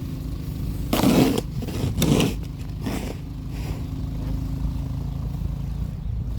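An engine running steadily in the snow, with a couple of scrapes about one and two seconds in, typical of a shovel scraping snow off pavement.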